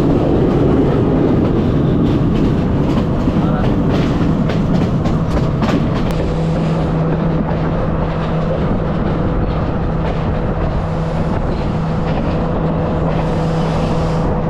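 Passenger train running along the track, heard from on board: a steady loud rumble with a low hum, and the wheels clicking over rail joints during the first several seconds.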